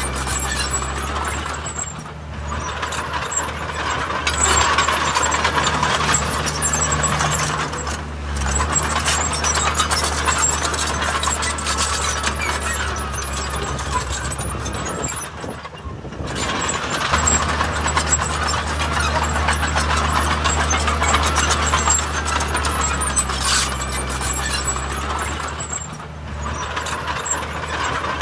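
Heavy diesel earthmoving machinery running hard, with a steady low engine drone and a constant clatter of metal clanks and scraping over it. The engine dips briefly several times, then picks up again.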